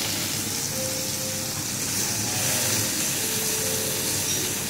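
Chicken strips, bell peppers and onions sizzling steadily in a hot frying pan as they are stirred with a spatula for fajitas.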